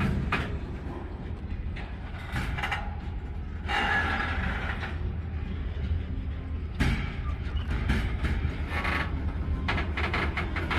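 Freight train cars rolling past: a steady low rumble of wheels on rail, with irregular clanks and rattles from the cars.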